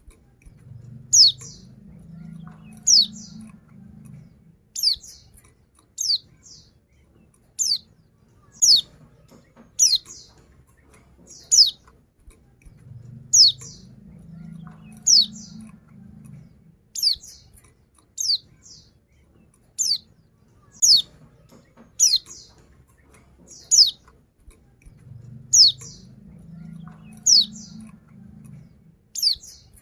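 Female white-eye (pleci, Zosterops) calling to a male with short, high notes that slur downward, about one every second to second and a half.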